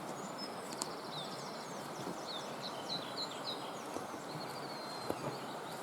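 Faint song thrush song: short high notes and quick downslurred phrases, some repeated, over a steady outdoor hiss.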